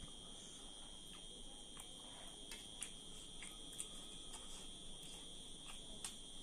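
Faint, steady high-pitched insect trilling, like crickets, with scattered soft clicks and smacks from someone eating.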